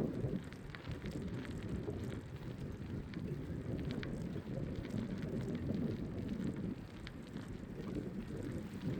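Wind buffeting the microphone on a moving bicycle: a steady low rumble, with scattered small crackles from the tyres rolling over the path.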